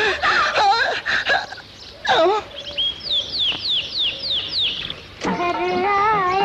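Bird calls on an old TV advert's soundtrack: a quick run of about seven high, falling chirps midway, then a long wavering held call near the end.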